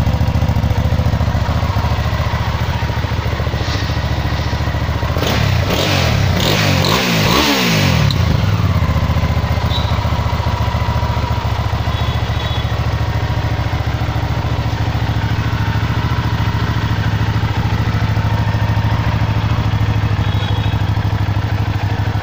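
Large motorcycle engine idling steadily through a heavy aftermarket silencer, with a louder burst of revving, pitch rising and falling, about five to eight seconds in.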